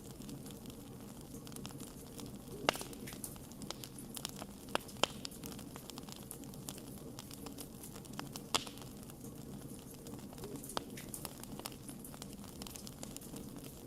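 Wood fire burning with a steady low hiss and scattered sharp crackles and pops, a few louder snaps standing out about a third and two thirds of the way through.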